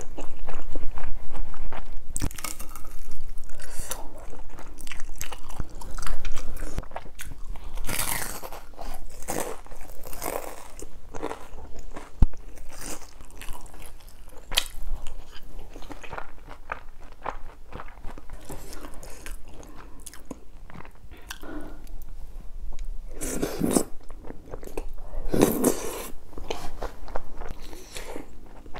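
Close-miked chewing and biting of tteokbokki rice cakes and fried snacks, with irregular crunchy bites; a few louder bites stand out about a quarter of the way in and again near the end.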